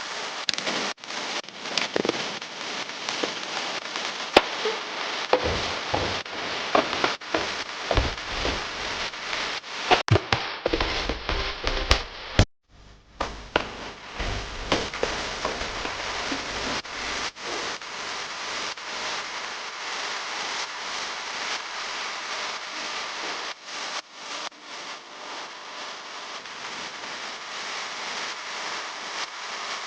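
Kids' meal toys and their plastic packaging being handled: continuous crinkling and crackling, with many sharp clicks and a few louder knocks.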